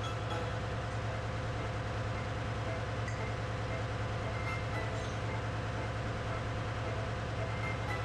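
Steady machinery drone in a ship's engine room: a continuous low hum with a rapid, even pulsing and some steady higher tones over it, without change.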